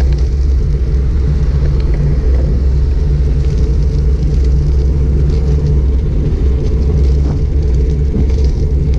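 Wind buffeting a helmet- or bike-mounted GoPro Hero 5 Black's microphone while riding a bicycle: a loud, steady low rumble, with faint ticks and rattles from the bike and road over it.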